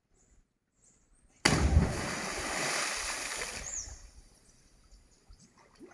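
A person jumping from a height into a pool hits the water: a sudden loud splash about a second and a half in, washing away over the next two seconds. Small birds chirp in the quiet before it, and a bird gives a short falling call as the splash dies away.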